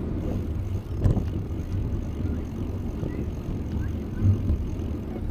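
Wind rumbling on the microphone of a moving bicycle, with two bumps: one about a second in and one near the end.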